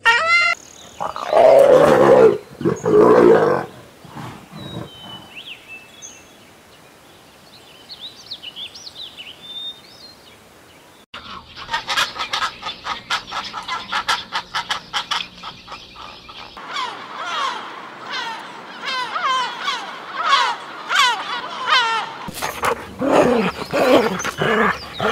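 Cats calling: two loud cries in the first few seconds, faint chirping in the middle, then from about halfway a rapid run of short, high-pitched cries.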